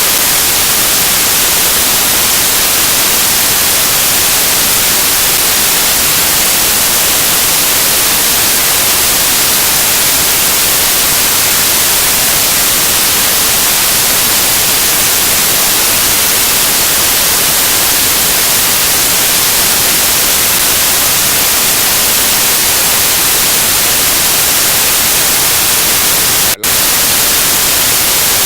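Loud, steady static hiss, bright and even, with no other sound in it, broken once by a split-second dropout near the end.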